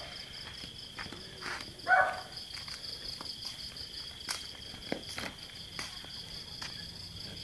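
Crickets trilling steadily in a high, even drone, with scattered small clicks and knocks from handling.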